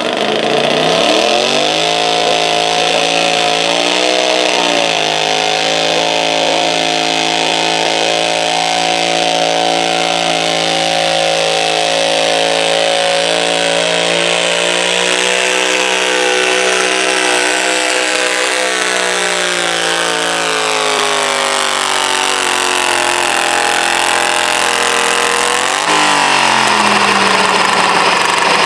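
Modified garden tractor engine running hard under load while pulling a stoneboat sled. Its pitch climbs at the start, wavers briefly, holds steady, then sags slowly as the load builds. About 26 seconds in the sound changes abruptly and the pitch drops.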